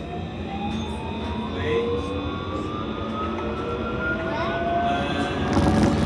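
Interior of an Alstom Citadis C Class tram moving off: the traction motors' whine climbs steadily in pitch over a low running rumble as the tram picks up speed, with a short burst of rattling near the end.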